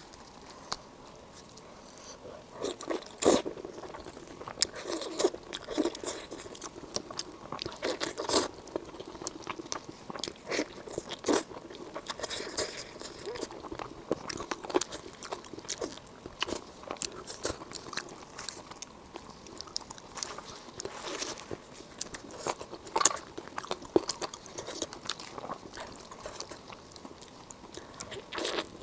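A person eating: crunchy bites and chewing, with irregular sharp crackles and clicks throughout.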